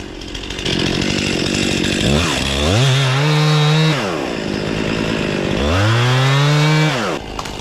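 Two-stroke chainsaw idling and then revved up to full throttle twice, each rev held for about a second and a half before dropping back.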